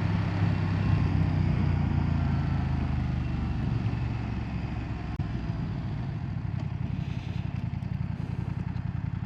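BMW F900R's 895cc parallel-twin engine running at low revs in rain mode. The engine is louder for the first few seconds, then eases off and settles into a steady low pulse.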